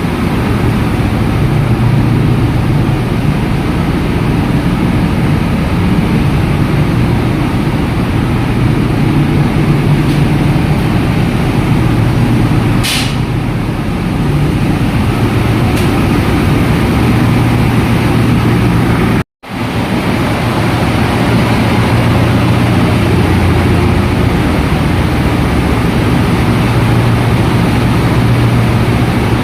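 Loud, steady din of a ship's engine-room machinery running, with a strong low hum. A short high whine comes about halfway through, and the sound drops out for a moment about two-thirds of the way in.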